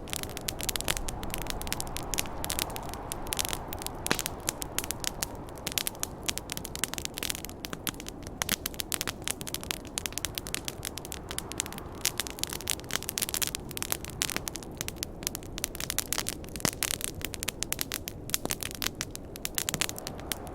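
Wood campfire crackling with dense, irregular pops, over a steady rush of snowstorm wind.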